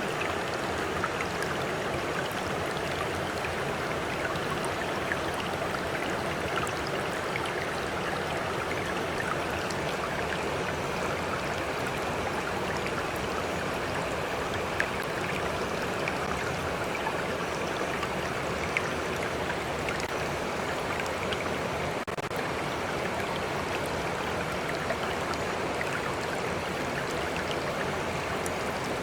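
Stream flowing steadily: an even rush of running water, with a few brief droplet splashes now and then.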